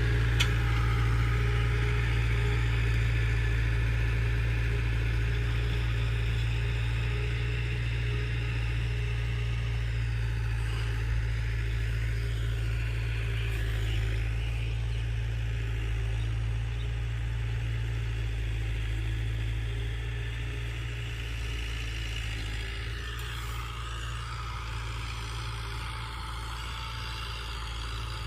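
Mahindra tractor's diesel engine running steadily with a low, even hum, growing somewhat quieter over the last several seconds.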